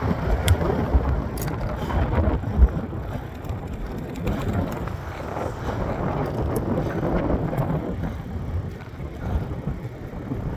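Wind buffeting the microphone while a mountain bike is ridden on a road, a steady low rush that swells and fades in gusts, with a few sharp clicks from the bike in the first few seconds.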